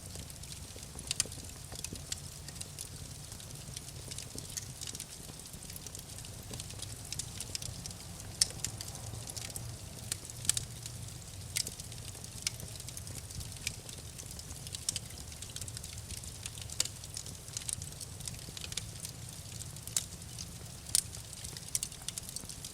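Wood fire crackling in a fireplace: irregular sharp snaps and pops, a few louder than the rest, over a steady low rumble of the flames.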